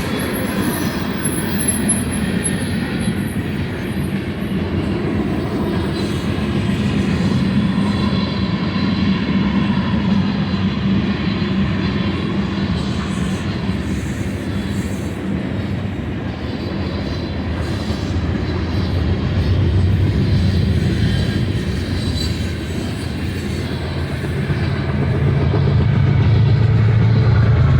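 Freight cars of a BNSF manifest train rolling past: a steady rumble of steel wheels on rail with some clickety-clack and a thin wheel squeal near the start. A deeper steady hum builds near the end.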